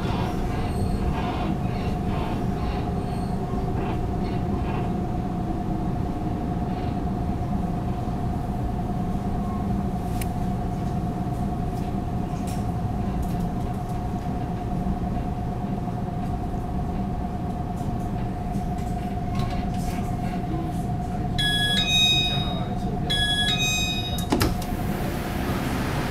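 Interior of a Taiwan Railways EMU600 electric multiple unit running and drawing into a station, with a steady whine over the running noise. Near the end a short electronic chime sounds twice, then a clunk as the passenger door opens and the whine stops, letting in a hiss of outside air.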